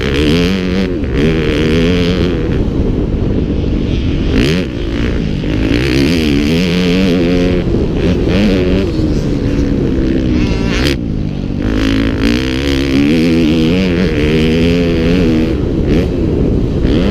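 Motocross motorcycle engines revving hard, the pitch climbing and dropping over and over as the riders open and close the throttle and shift through the gears.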